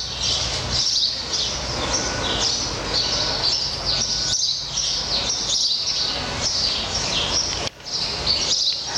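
A group of house sparrows chirping constantly, many short overlapping chirps, over a steady low rumble.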